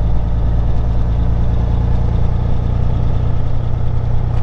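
Peterbilt 379 semi truck's diesel engine running steadily, a deep, even drone heard from inside the cab.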